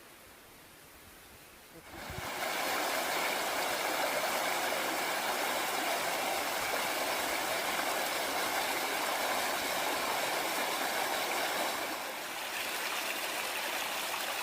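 Rushing water of a stream, a steady rush that starts about two seconds in after a quiet start and eases slightly for a moment near the end.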